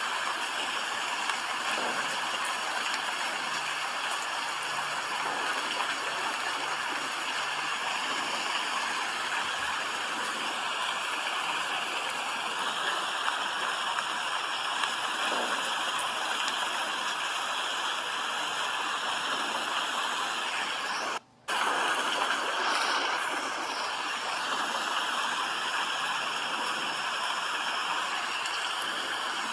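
Steady rain falling, an even hiss of water. It cuts out for a split second about three-quarters of the way through, then comes back a little louder for a moment.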